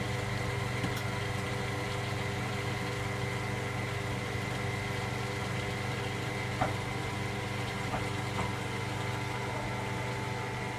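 Electra AWF683 front-loading washing machine running steadily on a 95 °C boil wash, its motor giving a constant hum, with a few faint clicks in the second half.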